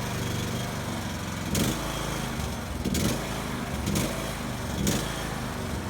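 A small engine running steadily with a low hum, with brief louder surges about once a second in the second half.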